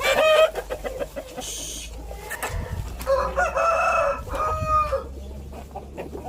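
Aseel chickens clucking and calling: a call right at the start, then a run of several short calls in the middle.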